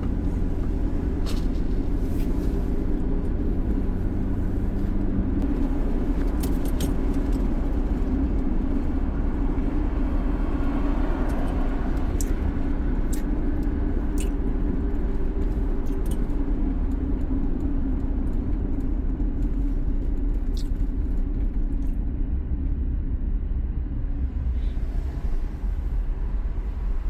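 Car driving, heard from inside the cabin: a steady low rumble of engine and road noise, with a few light clicks scattered through.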